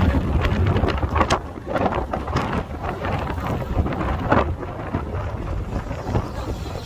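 Strong sandstorm wind blasting across the microphone: a heavy low rumble with irregular gusts swelling and easing.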